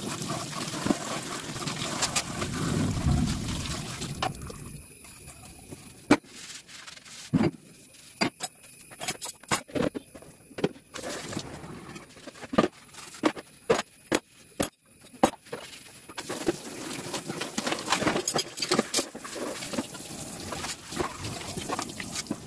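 Dishes being washed by hand at a kitchen sink: utensils and vessels clinking and knocking against each other in quick succession through the middle, with water running and splashing at the start and again near the end.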